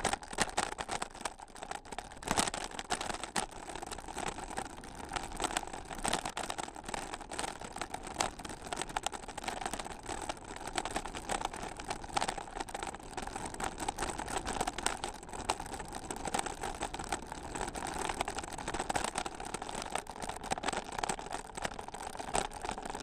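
Bicycle rolling along a trail: steady tyre and riding noise with frequent irregular rattles and clicks from the bike.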